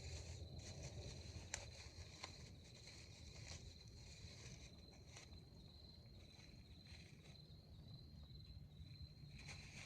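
Faint outdoor ambience with a steady, high-pitched insect trill, like a cricket singing. A couple of sharp clicks come about one and a half and two seconds in.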